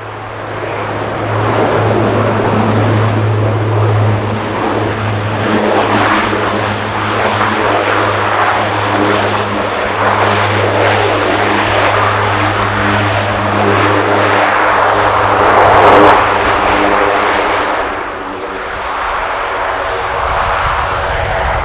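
Aircraft engine noise from a plane passing close by, with a steady low hum under a broad rushing sound. It grows louder, is loudest about sixteen seconds in, then eases off.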